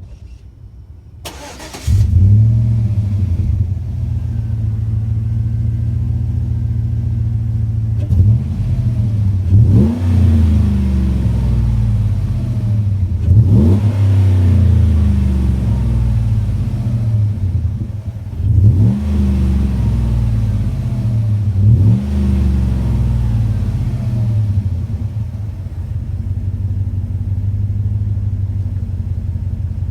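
2011 Chevy Suburban V8 with a Magnaflow muffler and the resonator deleted for SLP tips: cranks briefly and starts about two seconds in, then idles, with five short throttle blips between about 8 and 22 seconds before settling back to a steady idle.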